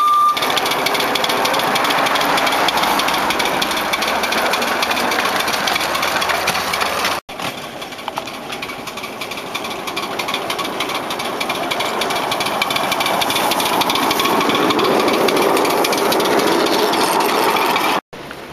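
Polly miniature live-steam locomotive running, a fast, dense rhythmic knocking and clatter. It breaks off abruptly twice, about seven seconds in and near the end.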